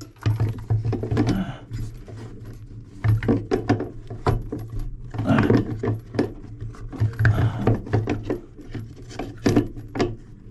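Irregular clinks, knocks and rubbing of a wrench and metal faucet fittings being handled and tightened, over a steady low hum.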